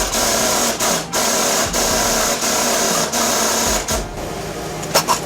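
Power ratchet spinning a bolt in two or three short runs, stopping about four seconds in.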